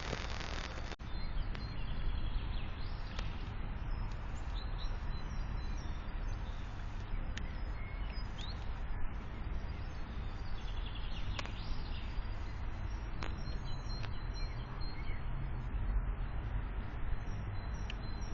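Small birds chirping now and then, short high calls scattered over a steady background hiss and low rumble of outdoor noise.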